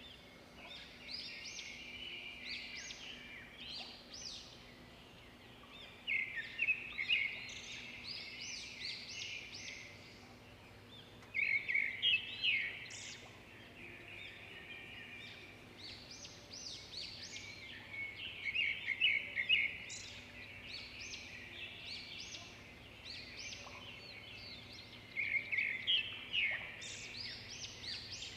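A group of pet budgerigars chirping and chattering, a continuous stream of short chirps broken by louder bursts of rapid chatter about every six or seven seconds.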